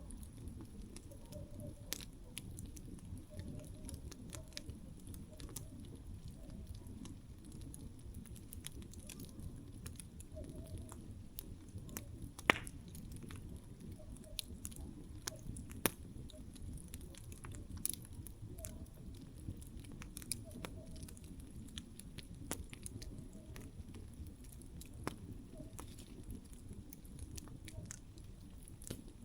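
Wood campfire crackling: irregular sharp pops and snaps, the loudest about twelve seconds in, over a steady low rumble.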